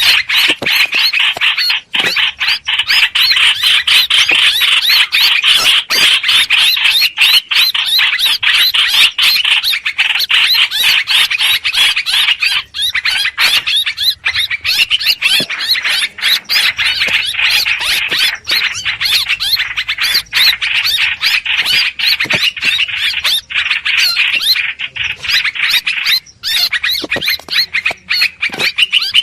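Continuous loud, fast chattering of a hoành hoạch bird, short harsh notes repeated many times a second with hardly a pause: a recorded decoy call played to lure birds into a trap.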